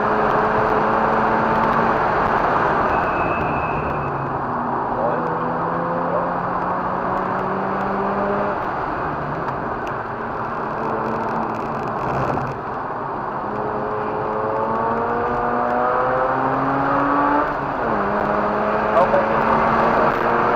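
Mazda RX-8's two-rotor rotary engine running hard under load, its note climbing in pitch and dropping back at a few gear shifts, over a steady rush of wind and road noise.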